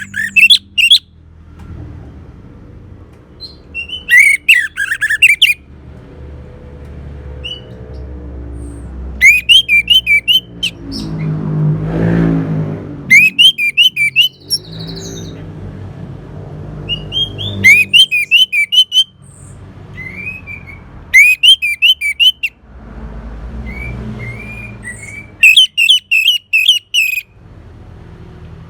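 Orange-headed thrush song: loud bursts of rapid, varied whistled phrases, one every three to four seconds. Between them a low rumble runs underneath and swells briefly near the middle.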